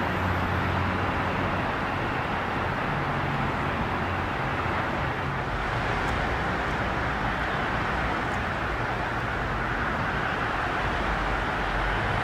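Steady rumble and hiss of a Long Island Rail Road electric train approaching on the track, with a low hum at times.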